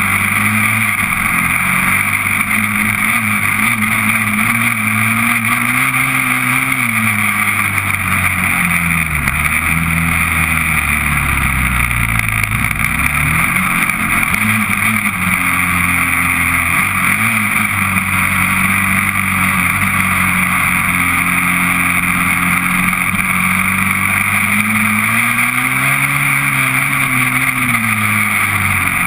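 Honda TRX400EX quad's single-cylinder four-stroke engine running under way, its pitch rising and falling repeatedly as the throttle is opened and eased, with a steady hiss over it.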